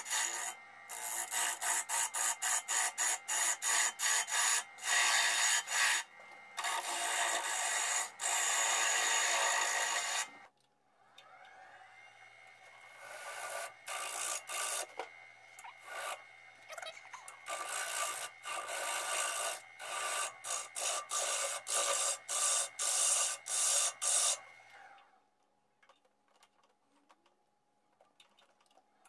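Abrasive sanding of an English walnut bowl spinning on a lathe: rhythmic rasping strokes of the abrasive against the wood. The strokes are loud for the first ten seconds, resume more quietly over a faint steady whine, and die away a few seconds before the end.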